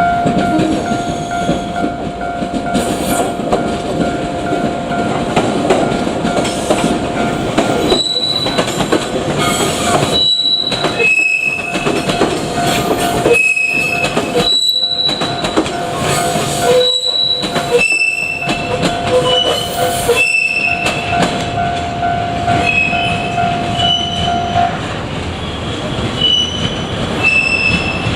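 JR Kyushu 817 series electric train, two sets coupled, running past over a level crossing: wheels rumbling on the rails, with short high squeals from the wheels from about a third of the way in. Under it a steady warning tone, most likely the level crossing alarm, runs and then stops near the end.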